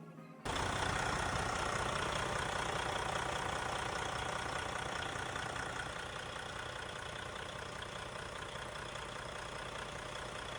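Detroit Diesel DD15 inline-six diesel engine running at idle after its rebuild. The engine sound cuts in abruptly about half a second in and settles a little quieter about halfway through.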